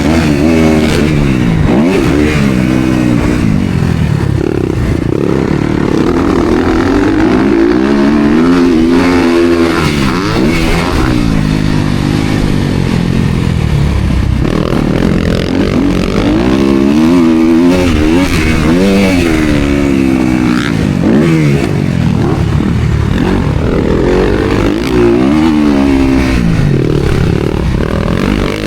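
Motocross dirt bike engine revving hard, its pitch climbing and dropping again and again as the rider accelerates, shifts and rolls off through the track.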